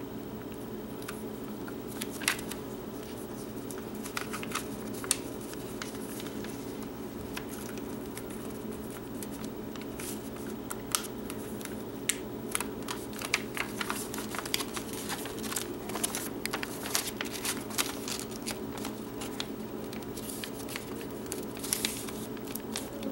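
A sheet of paper being folded and creased by hand, with scattered short crinkles and rustles over a steady low hum.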